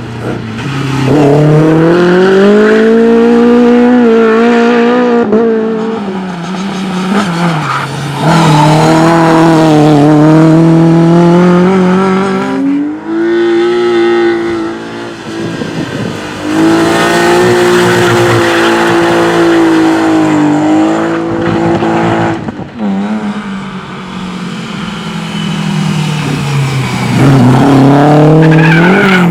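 Rally cars driven hard: loud engine notes that climb under full throttle, break at gear changes and drop off as the cars brake and turn, in several bursts, the last rising strongly near the end.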